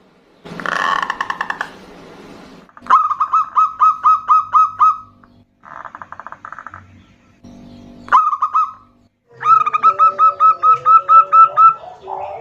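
Zebra doves calling back and forth in fast runs of short, clear cooing notes, about four or five a second. One run starts about three seconds in, a short burst comes near eight seconds, and a longer run begins near ten seconds over a lower wavering tone.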